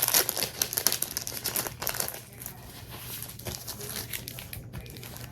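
Crinkling and rustling of a sheet of stickers being handled and peeled. It is busiest in the first couple of seconds, then turns to quieter, scattered rustles.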